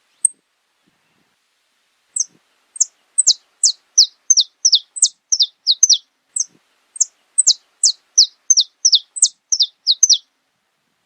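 Saffron finch singing: one short high note, then about two seconds in a long run of around two dozen sharp, high down-slurred notes at about three a second, ending about a second before the end.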